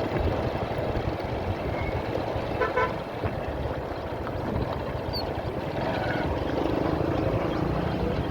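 Road noise from riding in traffic: a steady low rumble and wind-like hiss, with a vehicle horn honking briefly about two and a half seconds in.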